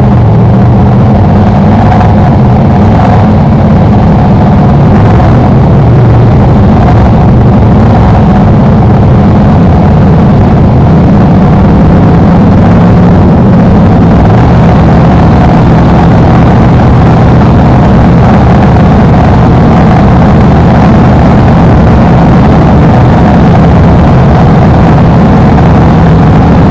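BriSCA F1 stock car's V8 engine heard from on board, running loud and fairly steady at moderate revs.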